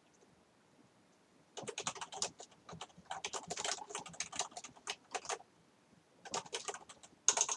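Typing on a keyboard: a quick run of key clicks for about four seconds, a short pause, then a second run near the end.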